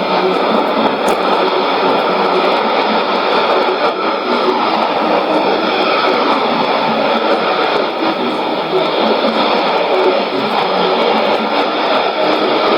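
Sony ICF-2001D shortwave receiver tuned to 11735 kHz, giving out a loud, steady rushing noise that covers the channel, muffled by the receiver's narrow filter, with a few faint steady tones under it.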